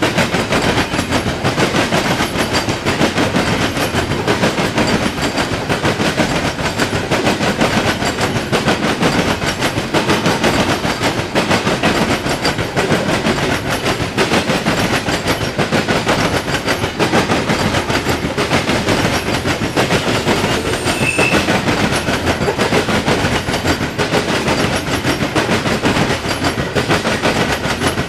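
Norfolk Southern freight train's cars rolling past, wheels clattering over the rails with a steady heavy rumble.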